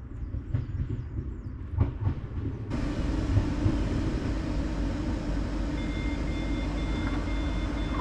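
Inside a moving passenger train carriage: a steady low rumble from the running train that starts abruptly about three seconds in. A thin high whine joins about six seconds in, partly pulsing on and off. Before the rumble there are a few seconds of quieter open-air noise with a few faint knocks.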